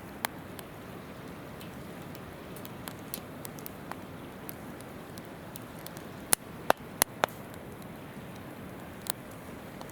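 Wood campfire crackling, with scattered sharp pops and a quick run of four loud cracks about six to seven seconds in, over the steady babbling of a nearby river.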